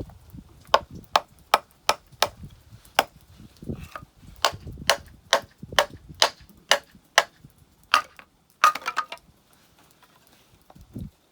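Firewood being chopped with a hatchet: a steady run of sharp wooden knocks, about two to three a second, ending in a quick cluster of knocks near the end.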